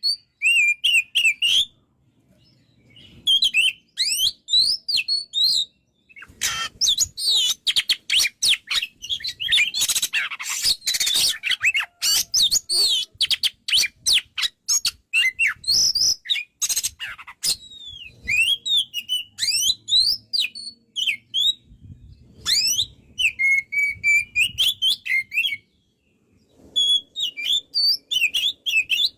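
Oriental magpie-robin (kacer) singing energetically: strings of varied whistled phrases sweeping up and down in pitch, with a dense run of rapid harsh chattering and clicks through the middle, broken by a couple of short pauses.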